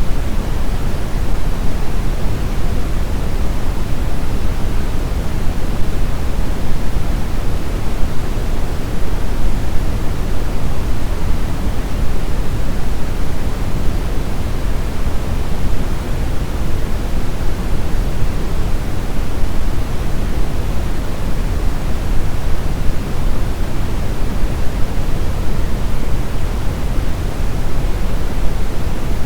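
Steady, continuous brown noise: an even rumbling hiss heaviest in the lows and thinning toward the highs, with no change in level.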